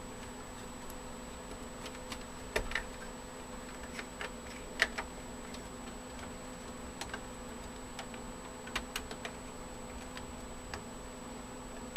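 Scattered light clicks and taps of plastic SATA power connectors and cables being worked into place inside a crammed computer case, the sharpest click a little before five seconds in, over a faint steady hum.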